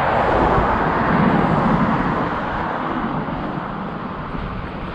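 Steady rushing wind and road noise of a motorcycle on the move, strongest in the first couple of seconds and easing slightly after.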